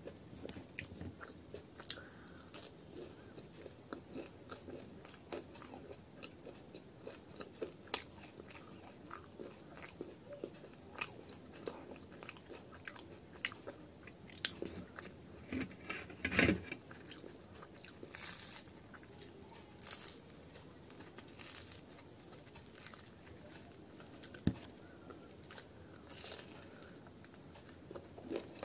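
Close-up eating of fried muli kachoris: irregular crisp crunches of the fried crust between bites, with chewing and mouth sounds. One louder thump comes just past the middle.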